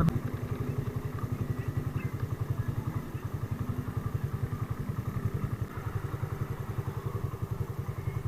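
Motorcycle engine idling with an even, quick pulsing beat, with a sharp click right at the start.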